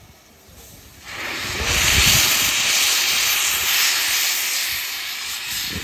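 Steam locomotive blowing off steam: a loud hiss that starts suddenly about a second in and keeps going, with a brief low rumble near its start.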